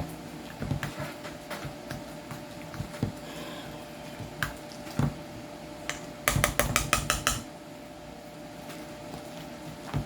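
A utensil knocking and scraping against a pot as mashed potatoes are mashed and mixed: scattered knocks, then a quick run of about eight strikes a little past halfway.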